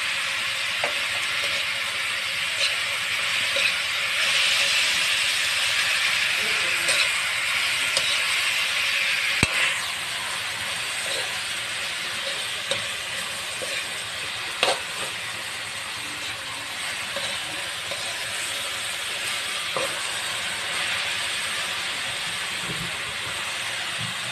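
Shredded banana blossom with longganisa frying in a hot aluminium wok: a steady sizzle that eases a little after about ten seconds. A metal spoon scrapes and clinks against the pan now and then.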